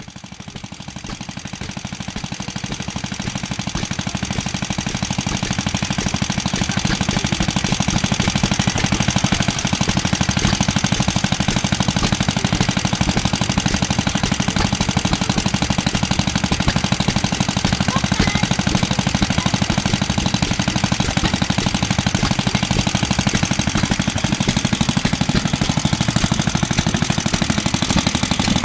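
Circa-1955 Clinton A-800 2.5 hp air-cooled small engine running steadily with a rapid, even beat while driving a small air compressor. It grows louder over the first several seconds, then holds level.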